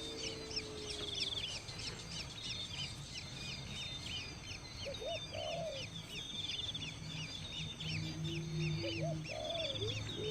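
Many small birds chirping in a dense, continuous chorus of short repeated notes, with a few lower calls breaking in about halfway through and again near the end.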